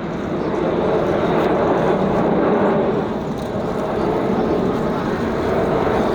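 Aircraft engine noise: a loud, steady rush with no breaks, easing slightly about halfway through.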